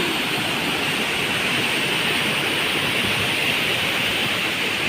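Waterfall's falling water: a steady, even rushing noise.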